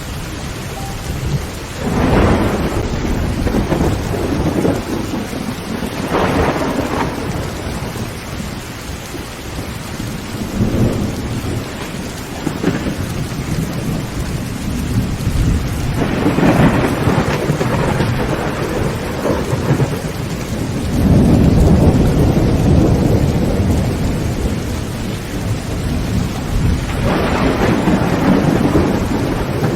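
Heavy rain falling steadily on a tin roof, with several rolls of thunder swelling and fading over it.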